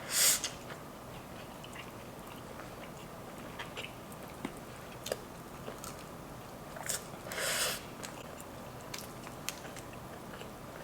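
Close-miked eating: chewing a piece of chicken wrapped in spicy instant noodles, with small wet clicks throughout and two louder, brief noisy bursts, one right at the start and one about seven and a half seconds in.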